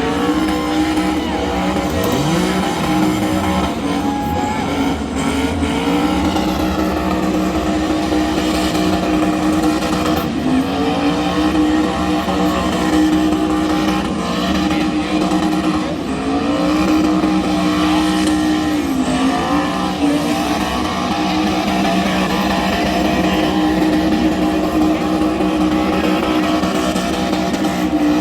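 A car engine held at high revs during a burnout, its note steady apart from a few brief dips in pitch.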